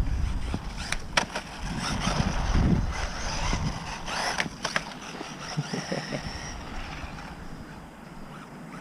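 WLtoys RC short course truck driving over rough ground: a faint high electric-motor whine that comes and goes with tyre and chassis rattle, and a couple of sharp knocks about a second in.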